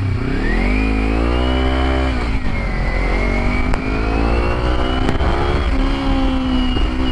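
Motorcycle engine pulling through the gears: the revs climb, drop sharply at an upshift about two seconds in, climb again and drop at another shift near six seconds. Steady wind and road rumble run underneath.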